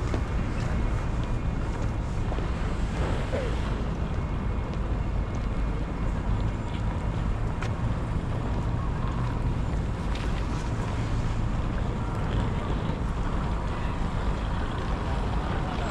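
Steady low rumble of city street ambience, even throughout with no clear single event.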